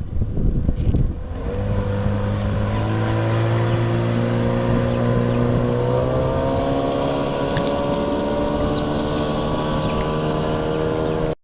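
50 HP two-stroke Johnson outboard running with the boat under way, its pitch climbing slowly as it gains speed, over wind rumble on the microphone that is strongest in the first second or so.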